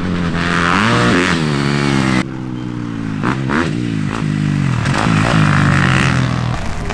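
Vintage motocross motorcycle engines revving up and easing off, the pitch rising and falling again and again; the sound changes abruptly about two seconds in.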